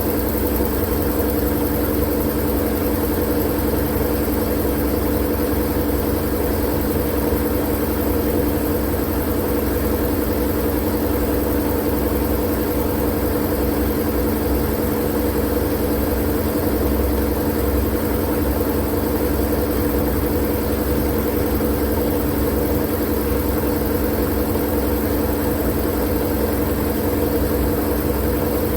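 Steady, unchanging droning noise with a strong low hum and a few steady tones in it, looped as white noise for sleep.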